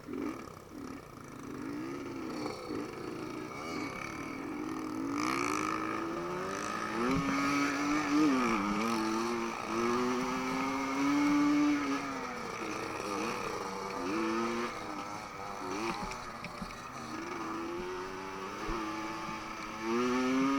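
Enduro motorcycle engine running under a changing throttle, its pitch rising and falling again and again as it is ridden.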